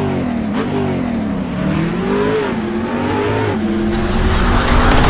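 Car engine revving, its pitch rising and falling several times, then holding steadier near the end as a louder rushing noise builds.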